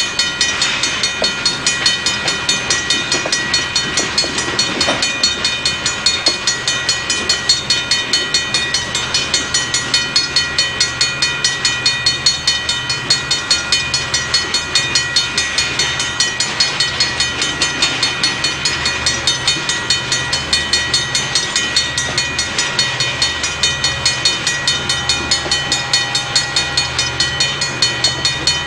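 Freight train cars rolling past, wheels clicking in a fast, even rhythm over the rail joints, with a steady metallic ringing above it.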